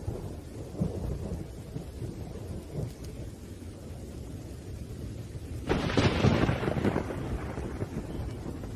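Thunderstorm with low, rolling rumbles of thunder under rain. About two-thirds of the way in a sudden, louder thunderclap cracks and then rumbles away over a second or so.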